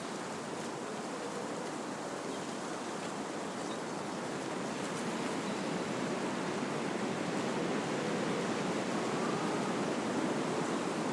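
Wind blowing through trees: a steady rushing of leaves and branches that swells gradually in the second half.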